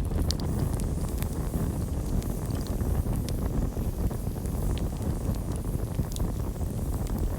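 Campfire burning: a steady low rumble of the flames with scattered sharp crackles and pops from the burning wood, a few every second or so.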